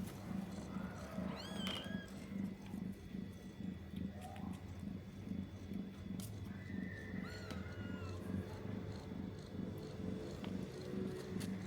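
Domestic cat purring steadily while nursing her kittens, a low rhythmic purr pulsing a couple of times a second. A couple of brief high squeaks cut in, about a second and a half in and again around seven seconds.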